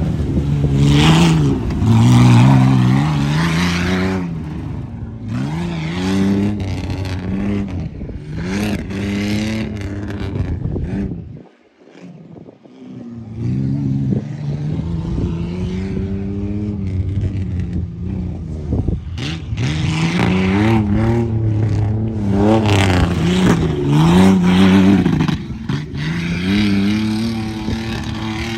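Truck engine revving hard under load, its pitch climbing and falling again and again as the throttle is worked. The sound breaks off briefly about twelve seconds in, then the revving picks up again.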